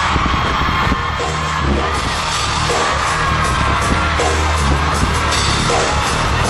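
Loud live pop concert music with a heavy pulsing bass beat.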